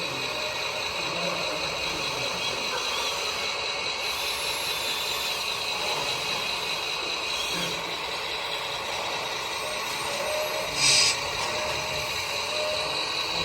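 Radio-controlled model trucks and construction machines running, a steady hum with high, thin motor and gear whines. About eleven seconds in, a short, loud hiss like a truck's air-brake release cuts in and stops.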